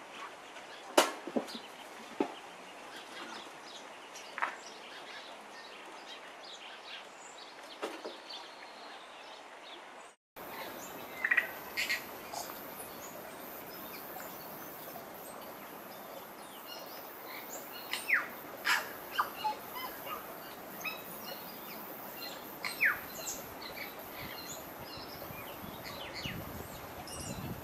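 Wild forest birds calling: scattered short chirps and clear whistles, a few of them falling in pitch, over a faint steady background. The sound drops out briefly at a cut about ten seconds in.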